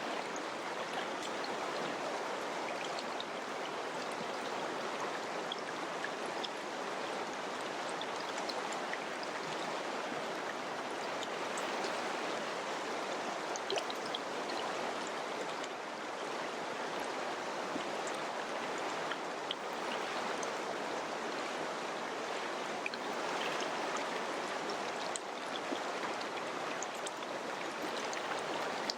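Mountain river rushing and splashing over rocks, a steady flowing water sound with small splashes scattered through it.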